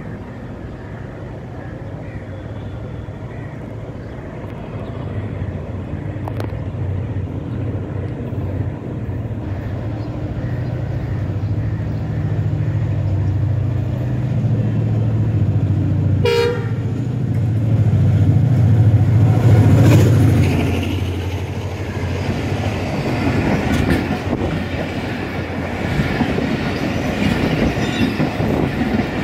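Diesel locomotive of a passenger express approaching and passing at speed, its engine drone growing steadily louder. A short horn blast sounds a little past the middle. After that the coaches roll by with wheels clacking over the rail joints.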